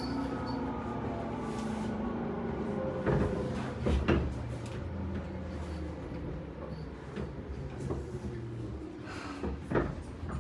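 Interior of a Tobu 10030 series electric commuter train on the move: a steady running rumble with a motor hum that falls slightly in pitch over the first few seconds. Sharp knocks and rattles come about three and four seconds in and again near the end.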